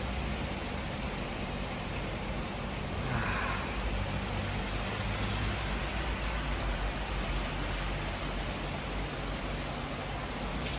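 Steady rain falling on a wet street and paving, an even hiss of drops.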